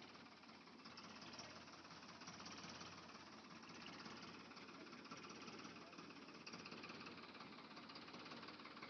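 Small motor of a toy vehicle running steadily with a fine, rapid buzzing rattle.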